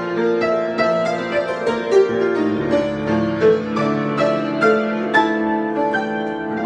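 Solo piano improvisation: single melody notes struck about twice a second over sustained lower chords.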